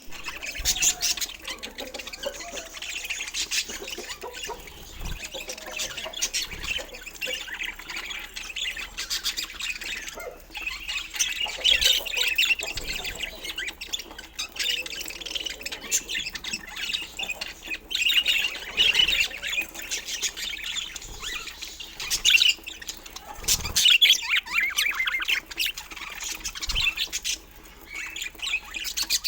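A flock of budgerigars chattering and squawking, with many calls overlapping without a break.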